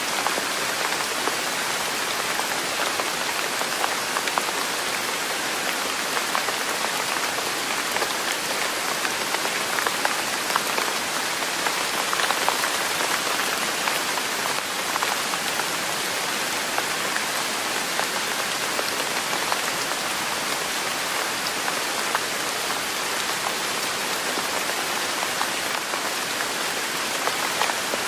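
Steady rain falling on a surface: an even hiss with many tiny drop ticks, holding level throughout.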